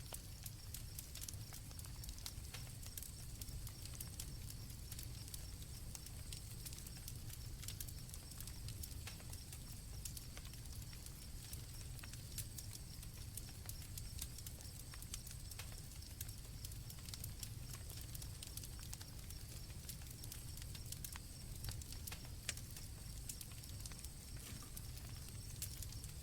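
Campfire crackling with irregular sharp pops over a steady low rumble, while crickets trill steadily and high in the background.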